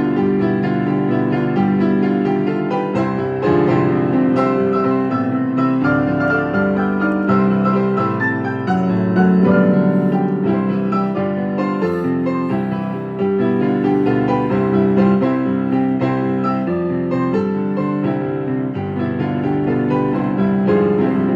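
A simple tune played on piano, with a melody over held low chords.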